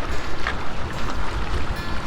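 Wind buffeting the microphone: a low, wavering rumble over a steady outdoor hiss.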